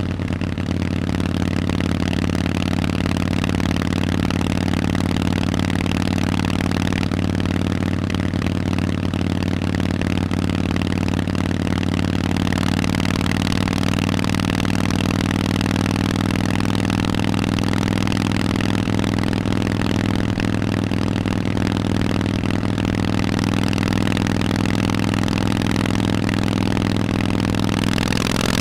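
Harley-Davidson Forty-Eight's air-cooled 1200 cc V-twin through Vance & Hines aftermarket exhausts, running at a steady engine speed with a deep, even exhaust note. Near the end the pitch starts to rise.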